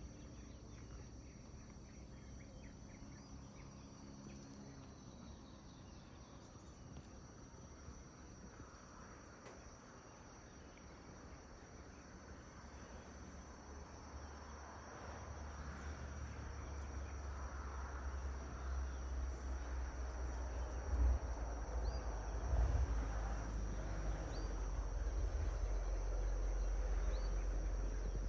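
Insects trilling steadily in tropical forest, a high thin continuous sound. A low rumble grows louder about halfway through, with two brief thumps near the end.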